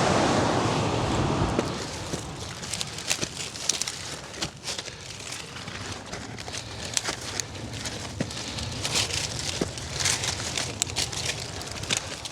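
Footsteps crunching and brush rustling on a steep dirt trail, an irregular run of short crackles. A steady rush of noise fades out over the first two seconds.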